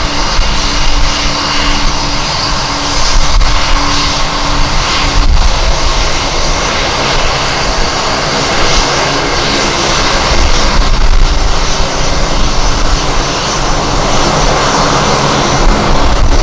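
Jet airliner's engines running loud and steady, with a fluctuating low rumble from strong wind buffeting the microphone.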